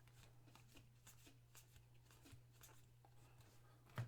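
Faint handling of trading cards: soft scattered rustles and small clicks as cards are slid and flipped, over a steady low hum, with a sharper click near the end.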